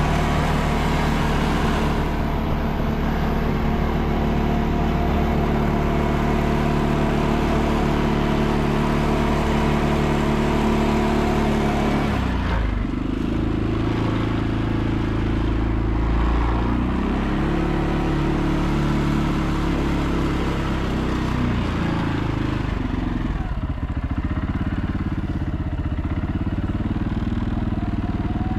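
CFMOTO CForce ATV engine running steadily while riding. About twelve seconds in, the engine note drops lower and the higher sound falls away, as when the throttle eases off.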